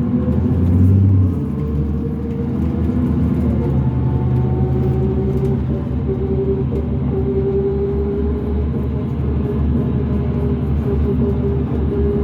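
Cabin sound of a 2005 New Flyer D40LF transit bus under way: its Cummins ISL diesel engine running steadily, with a louder swell about a second in. A steady, slightly wavering whine runs over the drone, typical of the weird axle noise this bus is known for.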